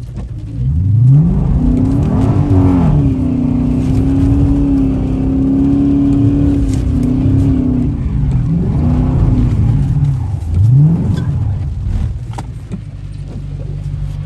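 Car engine revved hard during a donut attempt: it climbs quickly, is held high for several seconds, falls away, then revs up sharply again and drops off. The car has an open differential.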